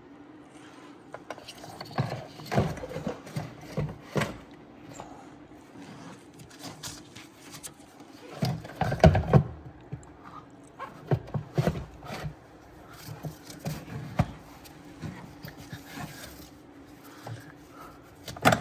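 Irregular knocks, clicks and rubbing of plastic parts as the replacement evap leak detection pump is worked into its mount by hand, with a louder run of knocks about nine seconds in.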